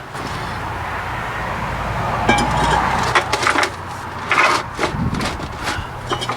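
Pneumatic air hammer run in several short bursts against the steel lock pins of a truck's kingpin, trying to drive them out, over a steady low hum.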